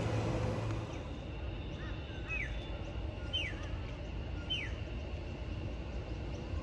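A bird calls three times, about a second apart, each a short note falling in pitch. Underneath is a steady low rumble, with the tail of a passing train dying away in the first second.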